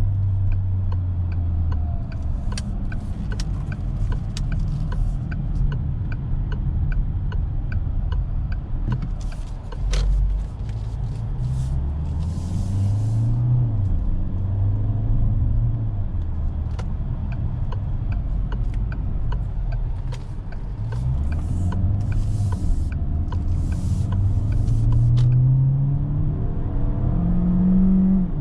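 DS 9 E-TENSE 225 plug-in hybrid on the move, its 1.6-litre turbo four-cylinder petrol engine droning under road rumble. The engine note climbs in pitch and drops back several times as it pulls through the gears. A faint regular ticking runs through the first few seconds.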